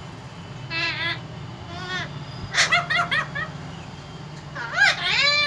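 A parrot giving short, wavering calls in four bursts about a second apart, the last one the loudest, over a steady low background hum.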